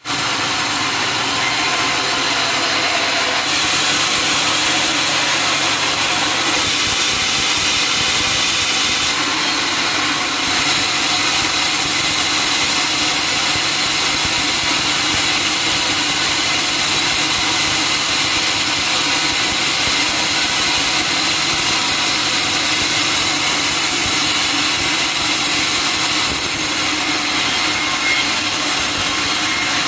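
Sawmill saw running steadily through a log: a loud, continuous mechanical noise with no pauses, its high hiss shifting a little every few seconds.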